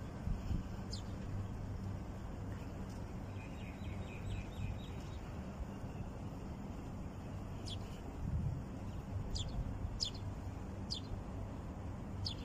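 Small birds chirping: a few short, high chirps, one about a second in and several more in the second half, over a steady low outdoor rumble.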